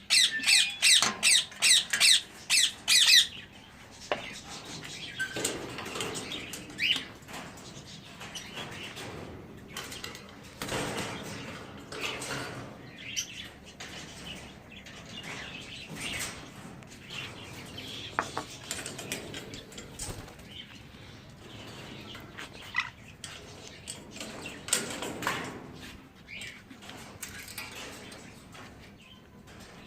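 A parrot squawking loudly in a fast run of about three calls a second for the first three seconds. After that come scattered, quieter chirps and calls from pet parrots, with wing flaps.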